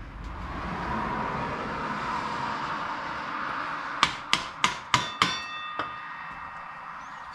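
A hammer striking metal five times in quick succession, each blow leaving a metallic ring, then one lighter tap, over a steady rush of passing highway traffic.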